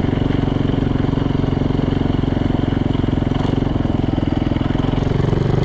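Yamaha YZ450F dirt bike's freshly rebuilt single-cylinder four-stroke engine running steadily under gentle riding, ridden easy rather than opened up.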